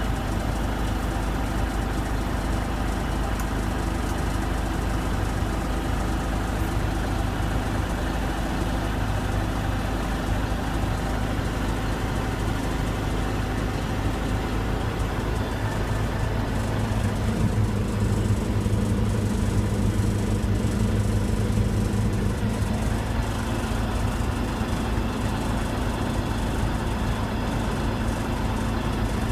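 Diesel engine of a 1994 Mack RD690S cement mixer truck running steadily, with the engine note growing louder for several seconds past the middle before settling back.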